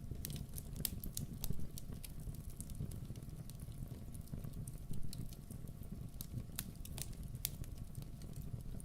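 Campfire burning: wood crackling with irregular sharp pops, a few of them louder, over a low steady rumble.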